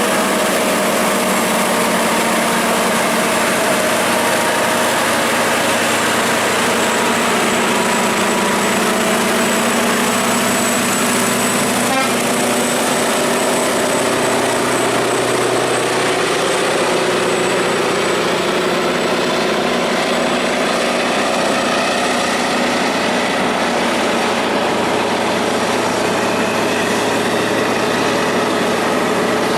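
Truck engine running steadily under load, with several engine tones drifting slowly in pitch over the road noise, as on a long climb.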